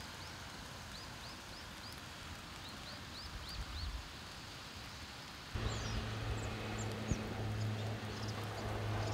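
Outdoor field ambience with a small bird calling in runs of short, high, rising chirps. A little past halfway the background gets louder and a steady low hum joins in.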